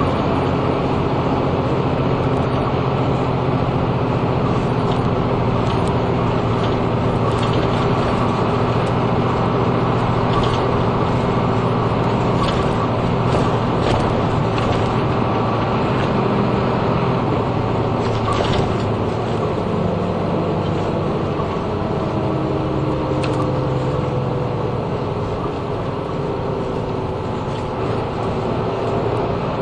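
Inside a route bus on the move: the diesel engine runs steadily under the cabin's road noise, with light rattles and clicks from the bus interior. About two-thirds of the way through the engine tones fall slightly and the noise eases a little.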